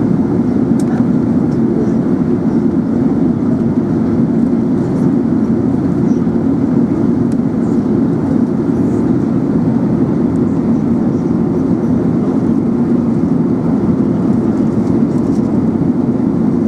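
Steady airliner cabin noise inside an Airbus A380 in flight: an even, low rush of engines and airflow, unchanged throughout.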